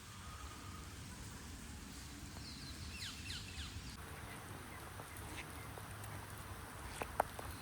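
Faint steady rain hiss, with a bird giving a quick run of short, high, falling calls about three seconds in. A single sharp tap, like a drip, comes near the end.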